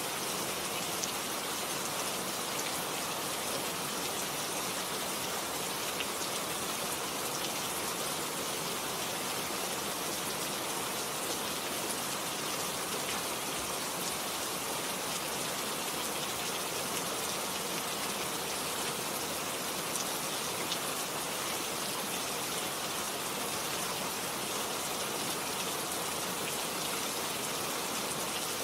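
Rain falling steadily: an even hiss with many small individual drop hits scattered through it.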